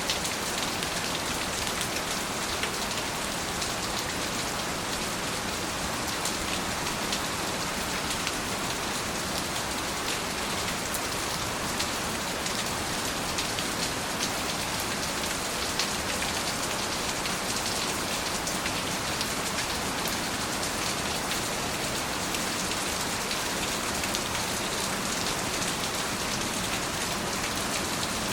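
Steady rain falling on a surface, a dense even patter with many small close drop ticks.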